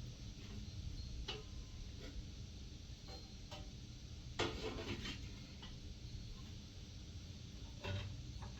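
Scattered light clicks and knocks over a low steady rumble, with a brief cluster of rattling clicks about four and a half seconds in and another near the end.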